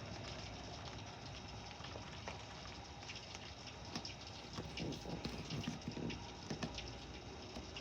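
Rain falling in a storm: a steady rush of rain, with drops pattering and ticking sharply on nearby surfaces.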